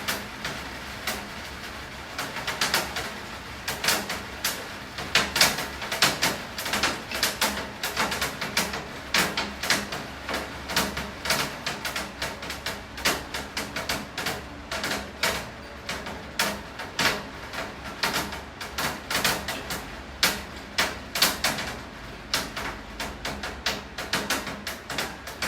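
Steady rain with heavy drops tapping irregularly on a hard surface, several taps a second.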